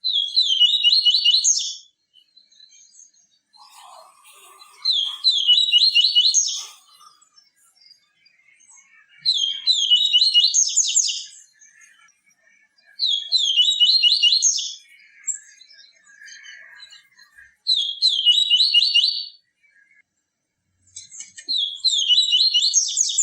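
A papa-capim seedeater singing the same phrase over and over: six high, fast strings of notes, each lasting under two seconds, with pauses of about two seconds between them.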